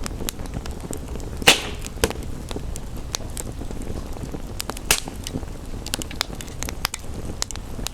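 Wood fire crackling with scattered sharp pops over a steady hiss of rain. The loudest pop comes about a second and a half in, and another near the five-second mark.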